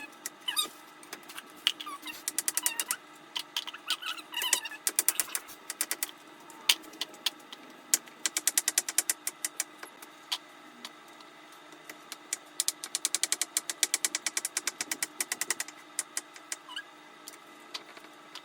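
Knife chopping vegetables on a cutting board: quick runs of rapid, even knife strokes, several a second, with single knocks between the runs.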